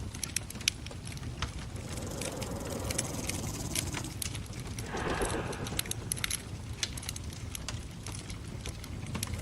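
Wood fire crackling with scattered sharp pops, over a steady low purring rumble. About five seconds in, a brief breathy rush lasts about half a second.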